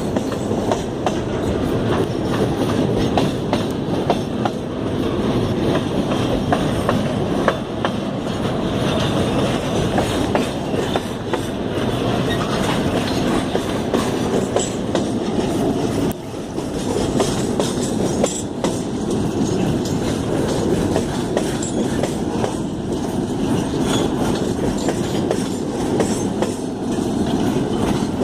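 Freight train wagons rolling past, a steady rumble with rapid clicks and knocks of wheels over the rail joints.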